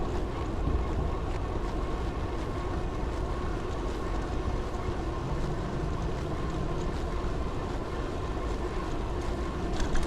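Steady wind noise on the microphone with the running noise of a vehicle being ridden, a faint steady whine under it. There is a short knock near the end.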